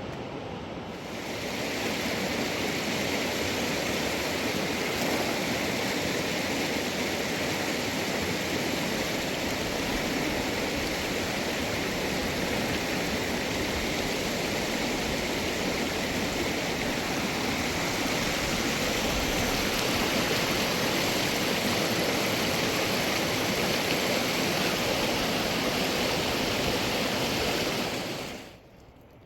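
River water rushing over stones: a loud, steady roar that swells about a second in and cuts off abruptly near the end.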